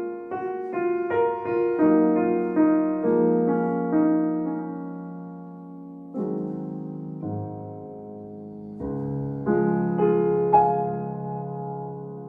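Solo piano music: a slow, gentle instrumental melody over sustained chords, each note struck and fading, with a softer passage in the middle.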